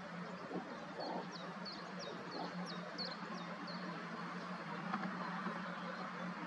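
A small bird's series of about eight short, high, down-slurred notes between about one and four seconds in, over a steady low hum.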